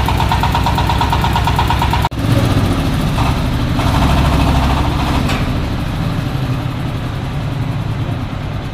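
Dong Feng 26 HP single-cylinder diesel engine running steadily with an even chugging pulse, powering a corn sheller. The sound breaks off for an instant about two seconds in.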